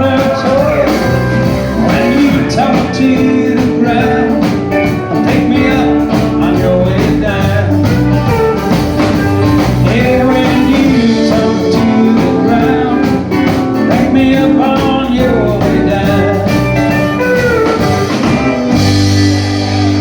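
Live country band playing, with electric guitar lines over bass and drums. Near the end the drumming stops and the band holds a final chord as the song ends.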